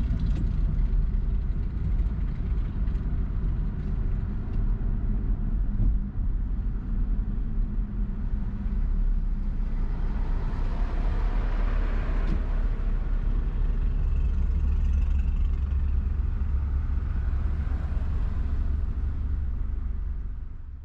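Car driving at road speed: a steady low rumble of engine and tyre noise, swelling in the middle and again near the end.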